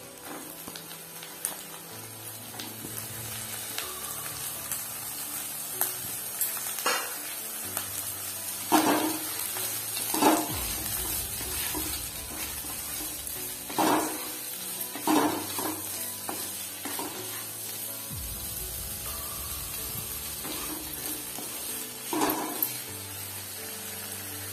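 Thin-cut potato sticks frying in hot oil in a nonstick kadai, with a steady sizzle. A spatula scrapes and stirs them about seven times.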